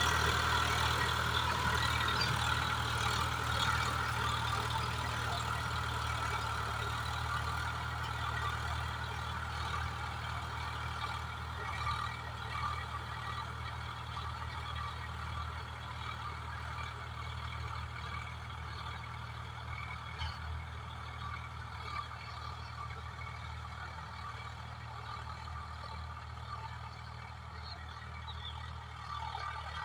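Swaraj 744FE tractor's diesel engine running steadily while working a rotavator, with a rougher noise above the engine hum, and the whole sound slowly growing fainter.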